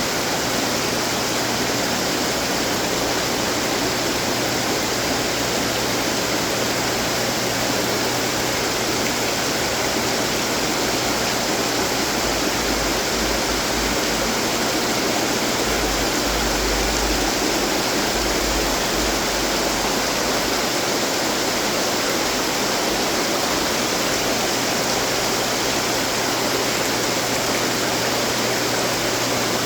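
Running water fountains splashing, a steady, unbroken rush of falling water.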